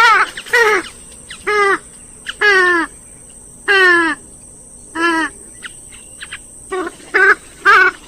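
Grey-headed swamphen calling over and over: about ten loud, harsh calls, each one falling in pitch, with a few short faint notes in between, a little after halfway.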